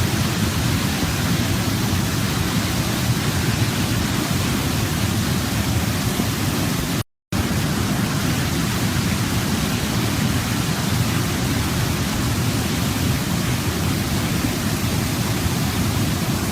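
Waterfall, a steady rush of falling water, with strong low rumble. The sound cuts out completely for a moment about seven seconds in, then resumes unchanged.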